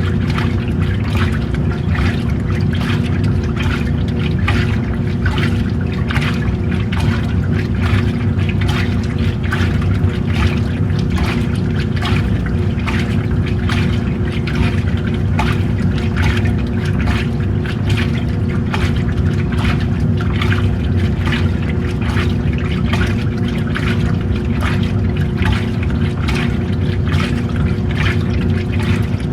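Washing machine running, with water sloshing and splashing in the tub over a steady motor hum.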